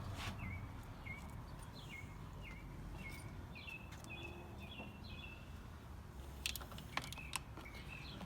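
A bird calling over and over, short chirps that slide down in pitch, about two a second. A few sharp clicks come in near the end.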